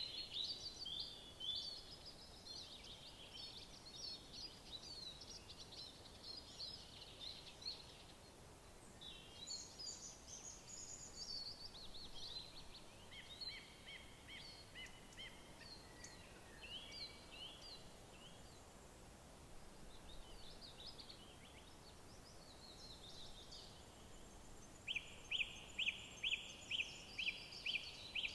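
Several songbirds singing over a faint, steady background hiss. Near the end, one bird repeats a loud, sharp note about three times a second.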